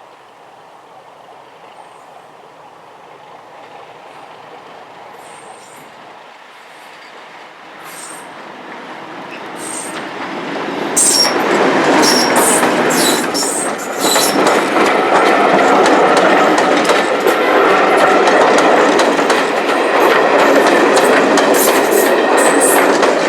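A train approaching and then passing close by, loud from about eleven seconds in. Its wheels rumble and click over the rail joints, with short high-pitched wheel squeals.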